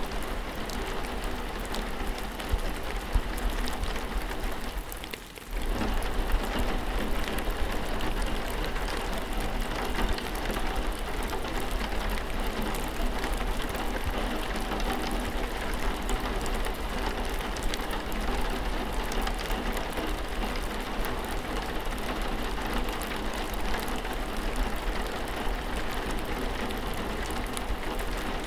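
Steady rainfall with many small drops pattering. The sound briefly dips and drops away for about a second, roughly five seconds in, then returns.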